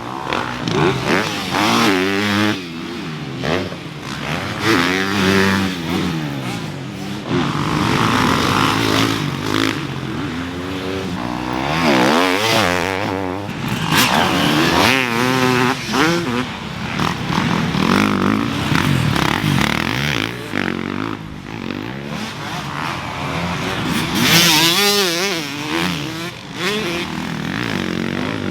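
Several motocross dirt bikes running on the track, their engines overlapping, each note climbing and dropping repeatedly as the riders throttle on and off.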